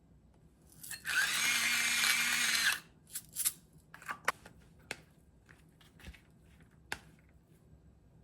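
A small motor runs in one loud, steady burst of under two seconds starting about a second in, followed by a series of light clicks and taps.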